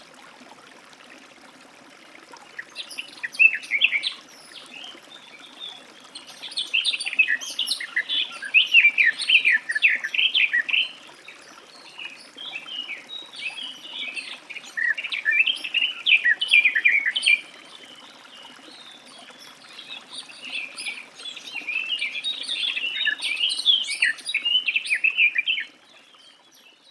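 Garden warbler singing: long, fast, rambling warbled phrases, several in a row with short pauses between them, stopping shortly before the end. A faint steady background hiss runs underneath.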